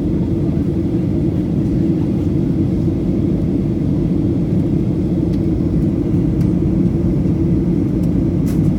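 Steady low rumble of cabin noise inside a Boeing 737-800 airliner: engine and airflow noise.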